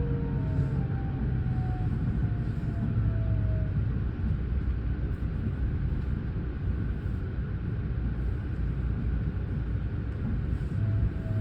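Electric train running, heard inside the passenger car: a steady low rumble, with a faint whine that falls in pitch in the first few seconds and again near the end as the train slows.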